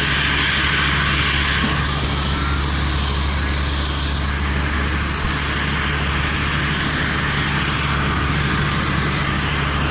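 Airbus A340's jet engines running steadily after start: a constant deep rumble under a high hiss and whine. A faint whine rises in pitch about a second and a half in.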